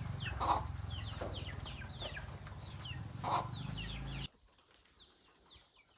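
Chickens calling: many quick, high, falling peeps with two louder clucks, over a low steady motor hum that cuts off suddenly about four seconds in.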